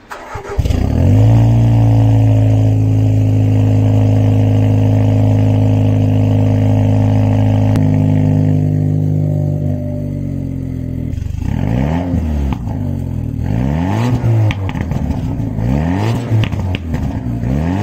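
Jaguar F-Type engine starting up and settling into a steady, loud high idle. In the second half it is revved repeatedly, about half a dozen quick blips rising and falling in pitch.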